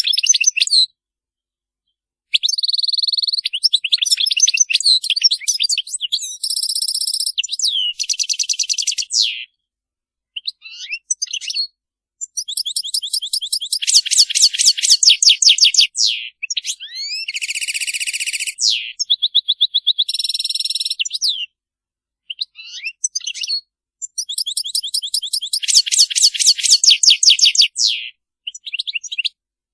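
European goldfinch twittering: phrases of fast high trills, buzzy drawn-out notes and rapid repeated chips, broken by short pauses.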